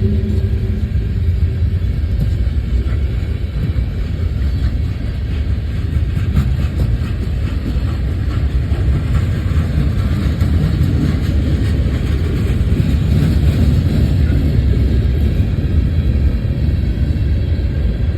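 Passing train: a steady low rumble of a train rolling by, with a droning tone that stops about a second in.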